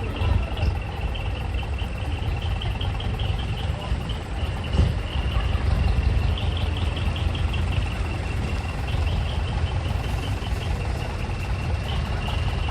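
Large diesel truck engine idling with a steady deep rumble, a fast high-pitched pulsing sound running over it.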